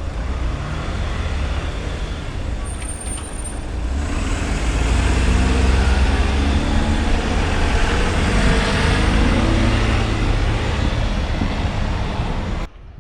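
Electric commuter train passing: a loud rumble that swells about four seconds in, with low humming tones that slowly rise and fall in pitch. It cuts off abruptly just before the end.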